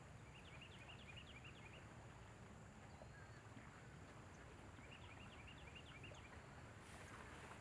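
Faint outdoor ambience: a low steady hum of distant road traffic, with a small bird singing a quick run of short high chirps twice, once near the start and again about five seconds in.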